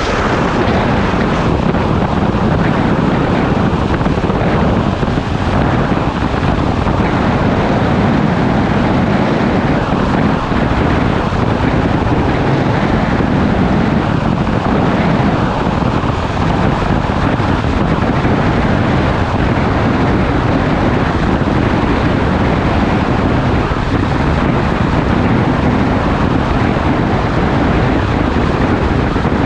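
Motorcycle riding at a steady speed: heavy wind noise on the action-camera microphone over the steady running of the engine.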